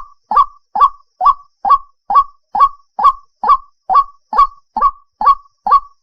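White-breasted waterhen (ruak-ruak) calling: a short, loud note repeated evenly about twice a second.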